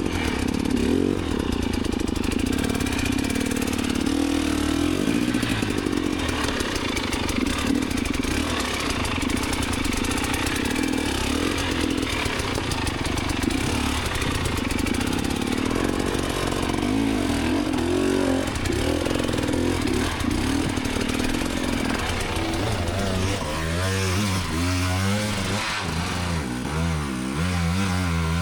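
Enduro dirt bike engine under hard, changing throttle on a steep climb, with clattering from the bike. Near the end the revs rise and fall quickly several times.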